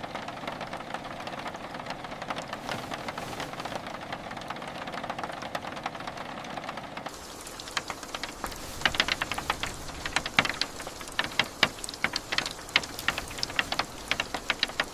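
Steady rain. About seven seconds in it changes abruptly to a brighter rain with many sharp drops tapping close by.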